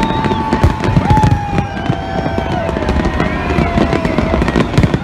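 Fireworks going off in a dense barrage of bangs and crackles, with long, slowly falling tones over them.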